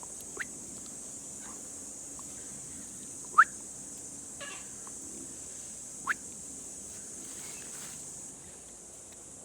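Three short, rising bird whistles a few seconds apart, the middle one loudest, over a steady high-pitched insect drone that drops away near the end.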